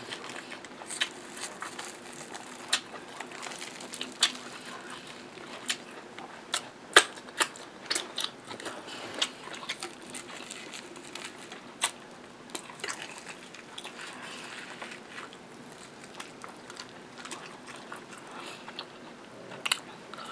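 Close-up mouth sounds of someone eating curried meat and tripe with her fingers: chewing and lip-smacking, broken by many sharp, irregular wet clicks.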